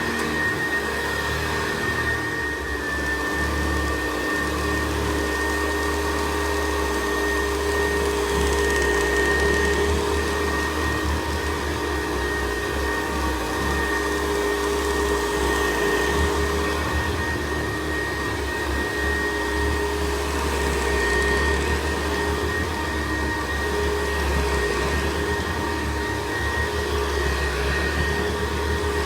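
Vintage 1960s Hoover Senior upright vacuum cleaner running steadily: an even motor hum with a constant high whine over it.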